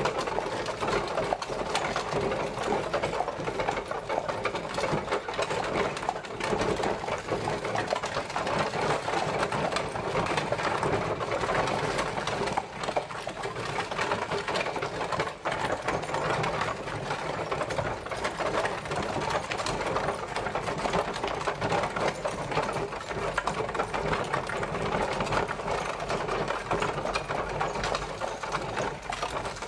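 Horse-drawn carriage on the move: a steady, dense clatter and rattle from its wheels and body.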